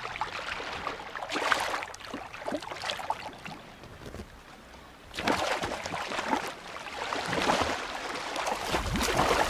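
Water splashing and gurgling in uneven surges, dying down around the middle and rising again about five seconds in.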